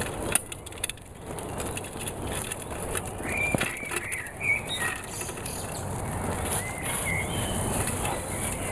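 Small birds chirping a few short calls, a cluster about three to five seconds in and again near seven seconds, over a steady background hiss. A few sharp knocks come in the first second.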